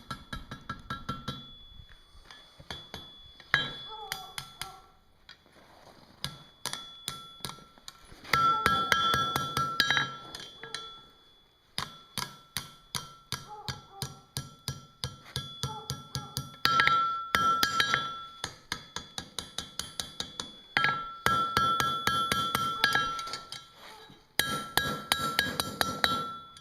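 Blacksmith's hammer striking hot steel on an anvil while forging a scroll, in runs of rapid blows several a second, with the anvil ringing at each strike.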